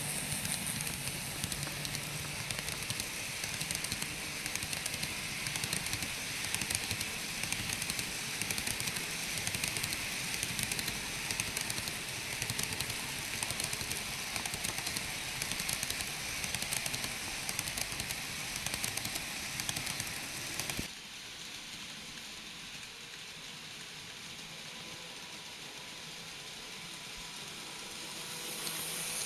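N-gauge model train running on its track: a steady rattle of wheels with fast clicking over the rails. About two-thirds of the way through it drops suddenly to a quieter, steadier hum with a faint whine, then grows louder again near the end.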